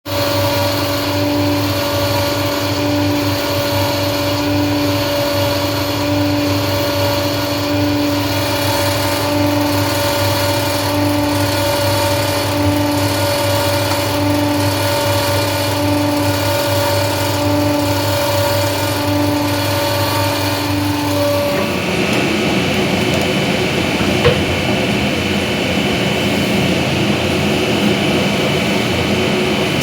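A machine running with a steady hum, one of its tones pulsing about every second and a half; about 21 seconds in it changes abruptly to a rougher, hissier running sound.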